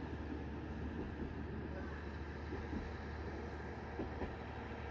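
A distant single-car diesel railcar running along the line, heard as a steady low drone with faint, irregular knocks from the wheels on the track.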